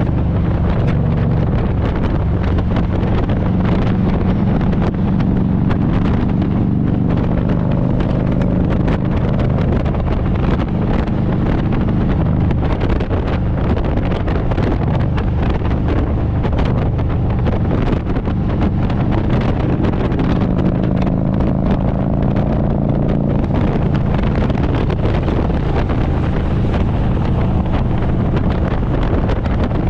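Harley-Davidson Road Glide's V-twin engine running under way, its note rising and falling a little with the throttle, with wind buffeting the microphone.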